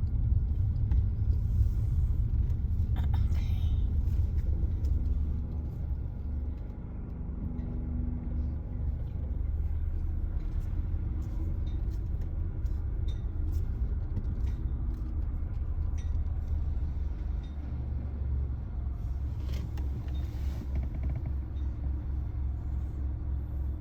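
Car's engine and road rumble heard from inside the cabin, low and steady, as the car creeps along at walking pace or idles.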